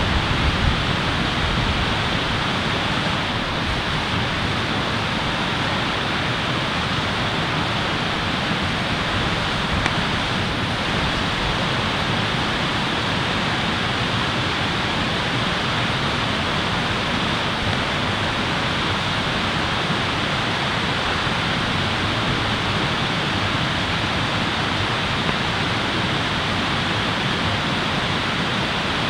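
Steady rushing noise at an even level throughout, with no distinct pops or knocks.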